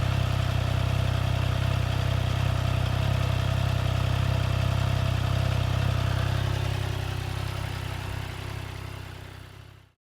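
Honda CMX1100 Rebel's parallel-twin engine idling steadily, fading out over the last few seconds.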